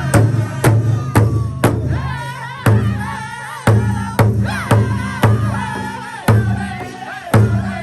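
Powwow drum song: a big hand drum struck in unison at a steady beat of about two strokes a second, with a group of singers' voices entering about two seconds in.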